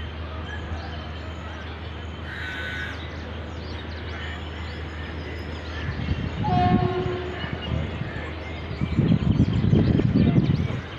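Indian Railways express train approaching: the locomotive gives a short horn note about six and a half seconds in, and a low rumble swells up near the end as the train draws closer.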